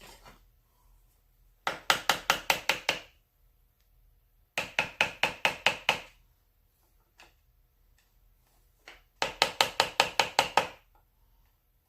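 A small hammer tapping in three bursts of quick, light, even taps, about six a second, with pauses between the bursts.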